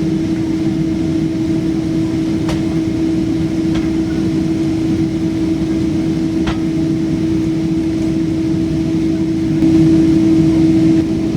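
Steady cabin drone inside a Boeing 777-200 on the ground before takeoff: a constant hum with one steady pitched tone, from the airliner's air-conditioning and engines. A few faint clicks, and the drone swells briefly near the end.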